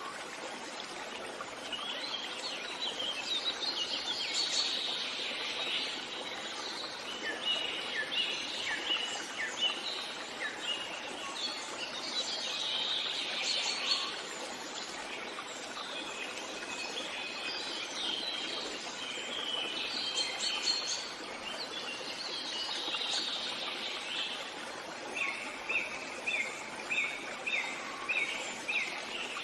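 Several birds singing in a forest, overlapping chirps and song phrases over a steady background hiss. Near the end, one bird repeats the same short note about seven times in a row.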